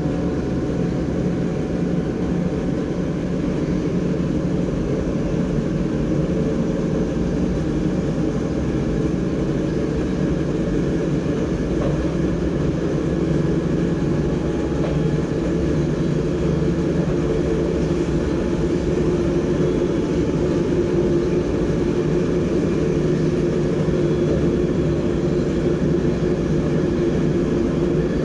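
NS DDZ double-deck electric train running on the line, heard from inside the driver's cab: a steady deep rumble of wheels on rails and running gear, growing a little louder in the second half.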